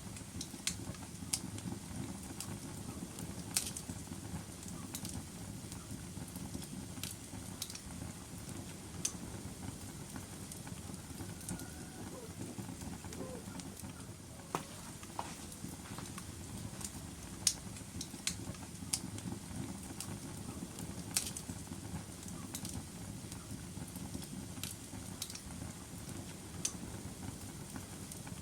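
Wood logs burning in a fireplace: a steady low rustle with irregular sharp crackles and pops, a few louder snaps standing out here and there.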